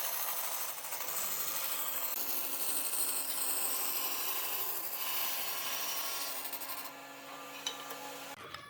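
Wood being worked by an abrasive power tool: a steady rasping with a low motor hum under it. The sound weakens about seven seconds in and cuts off sharply near the end.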